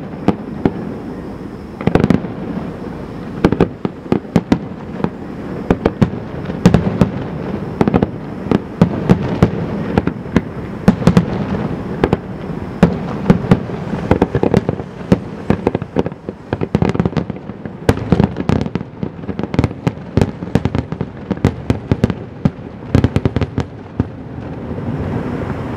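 Fireworks display: a rapid run of sharp bangs and cracks over a steady rumble, the bangs coming thick and fast through the second half.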